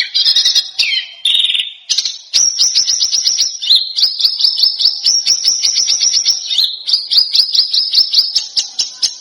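A songbird singing: a few short sharp phrases, then from about two and a half seconds in a long run of rapid, sharp repeated notes, about nine a second, broken by two brief pauses.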